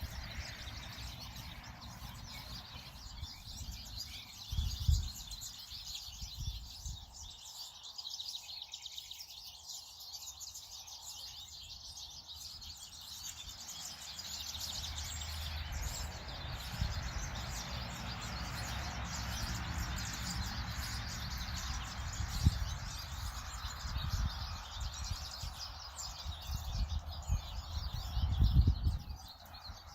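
Wild birds chirping and calling in a yard, many small chirps overlapping. A few short low bumps come through on the microphone, the loudest near the end.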